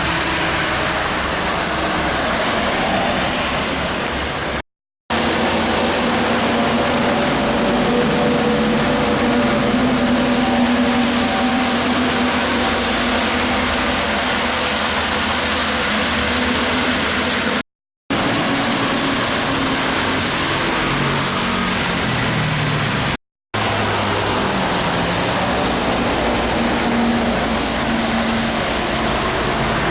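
Trucks and other traffic passing on a wet expressway: a steady hiss of tyres and spray on the wet road, with diesel engines droning and shifting in pitch. The sound cuts out briefly three times, about five, eighteen and twenty-three seconds in.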